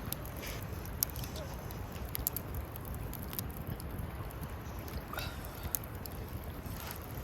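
Wood fire crackling, with sharp pops scattered every second or so over a steady low rumble.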